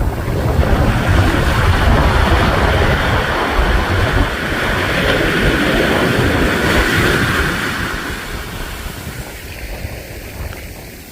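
Wind buffeting the microphone over ocean surf: a wave's rushing wash swells up about a second in, holds, and fades away near the end.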